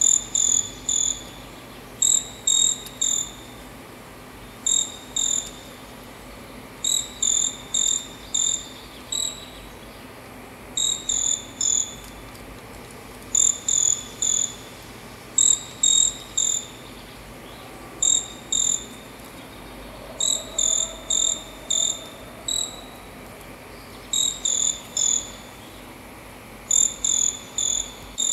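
Short-tailed pygmy-tyrant (caçula) calling: short, high chirps in quick runs of two to four, repeated every second or two.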